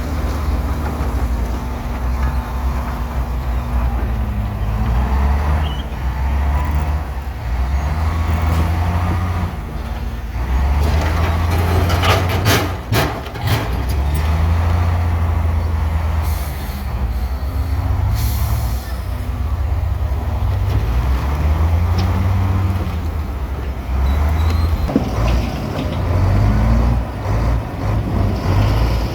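Heavy diesel engines of a bulldozer and dump truck working, the deep engine note rising and falling with load. A run of sharp clanks comes about twelve seconds in, and a short hiss a few seconds later.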